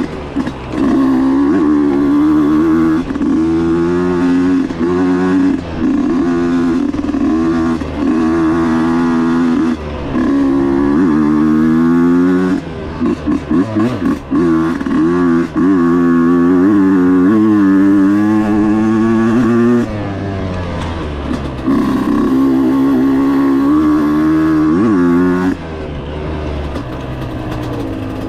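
Husqvarna dirt bike engine revving hard while riding. Its pitch climbs and drops again and again as the throttle is worked and the gears change, with a few brief lulls. It settles to a lower, steadier note near the end.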